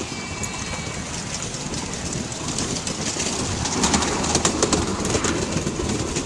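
Miniature railway train running along the track, heard from aboard: a steady rumble of wheels on rail, with a quick run of clicks from the wheels over the rail joints about four seconds in.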